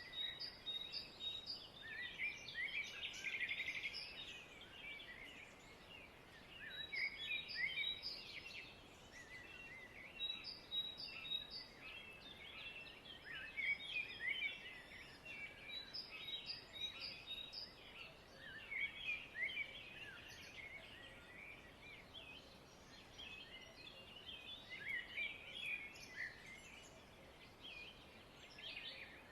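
Many small birds chirping and twittering at once, a dense, continuous chatter of short high calls with repeated runs of quick, evenly spaced notes.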